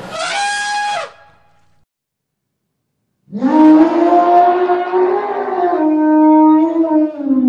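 A short, higher animal call fades out about a second in. After a pause, an elephant trumpets: one long, loud call of about four seconds, fairly steady in pitch.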